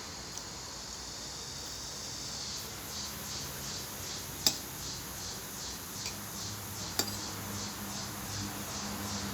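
Cutlery clinking against a plate while eating: two sharp clinks, about four and a half seconds in and again near seven seconds, with a couple of fainter taps.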